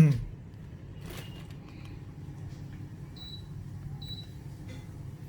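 Kenwood eSense non-inverter air conditioner running with its fan only, a steady low hum, its compressor off after a quick mode change. A click comes about a second in, and two short high beeps about three and four seconds in, the unit acknowledging mode-button presses.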